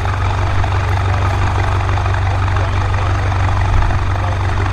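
BMW M5 F90's twin-turbo V8 idling through an aftermarket exhaust, a steady, loud low drone.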